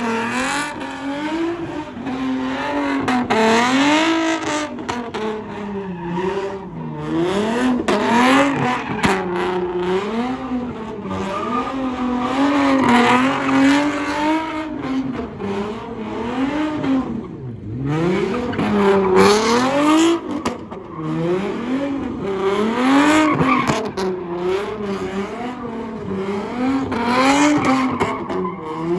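Car engine revving up and down over and over, with tyre squeal mixed in, as from a car doing burnouts or donuts.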